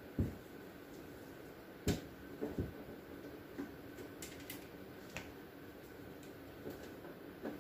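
A few light knocks and clicks of plastic fridge bins and containers being handled while a fridge drawer is wiped out, over a faint steady hum.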